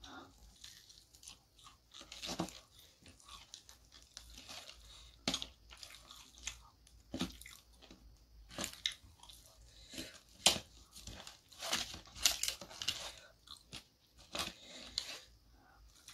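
Close-up chewing and crunching of crispy fried chicken (ayam goreng), with irregular crisp crunches, the loudest about ten and a half seconds in.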